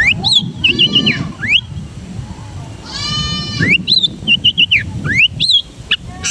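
Long-tailed shrike (cendet) singing a varied, mimicking song: quick rising whistled notes, rapid chattering notes, and a harsh bleating call about three seconds in.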